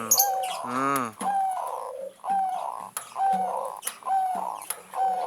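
Zebra dove (perkutut) cooing its manggung song, about five short phrases in a row, roughly one a second. The song is that of a mature bird whose cooing has opened out fully ('berai' and 'sudah jadi').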